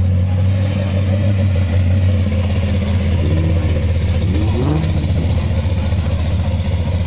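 A car engine idling close by with a steady low drone, and faint voices in the background.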